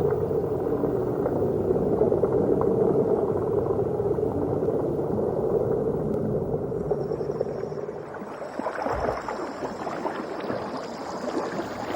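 Steady low drone of a boat's engine, changing about two-thirds of the way through to a rougher, hissing water noise.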